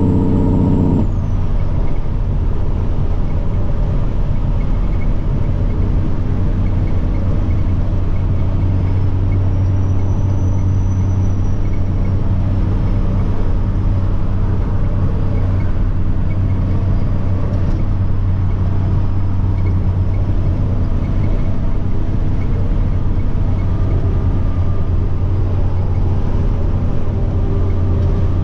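Semi-truck diesel engine running steadily on the road, heard from inside the cab as a strong low drone. About a second in, a high whine and the engine's higher tones drop away; later a faint high turbo whine rises and falls.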